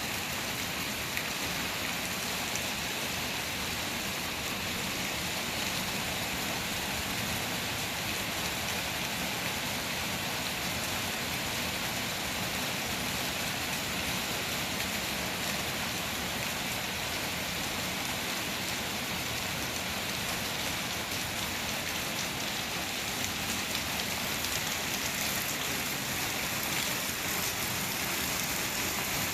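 Steady rain falling, a continuous hiss of drops landing on a surface.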